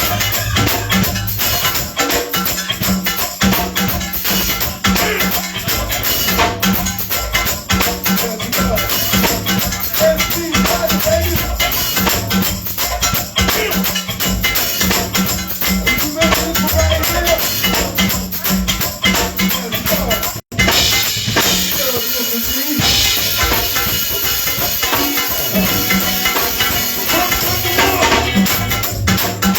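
Live band music with drums and steady shaken percussion; the sound cuts out completely for an instant about two-thirds of the way through.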